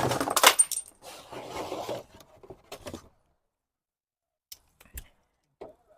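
Hand-tool work on an engine: scraping and rubbing for about the first second and a half, then a few light clicks, and after that only a couple of faint ticks.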